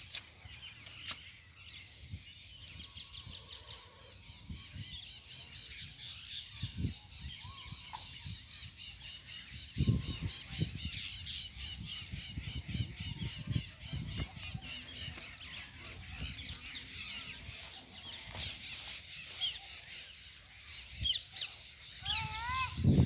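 Birds calling and chirping, with irregular low thumps underneath that are loudest about ten seconds in and near the end.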